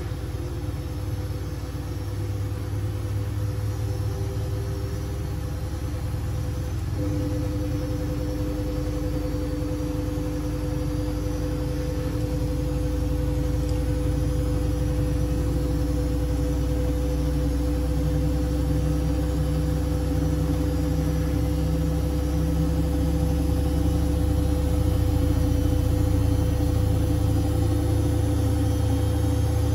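Siemens Siwamat 6143 washing machine running with a steady motor hum and drum rumble. The hum's pitch steps up and gets stronger about seven seconds in, and the sound grows slowly louder after that.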